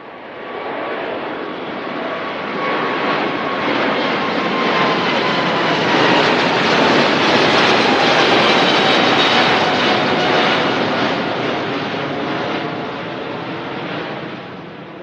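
Boeing jet airliner's engines at take-off power, passing by: the roar swells to a peak in the middle and then fades, with a whine that slides down in pitch as it goes past.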